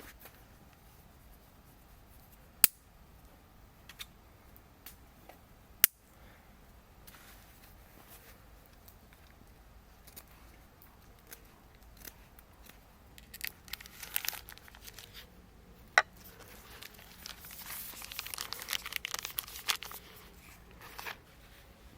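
Crinkling, tearing rustles in two bursts, as of material being handled, with three sharp clicks or snaps spread through the stretch.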